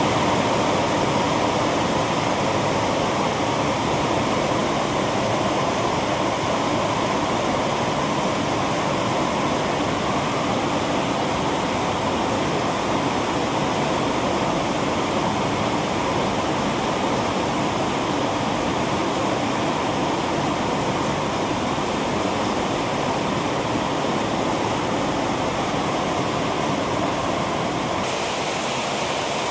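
Heavy rain falling: a dense, steady hiss with no separate drops standing out.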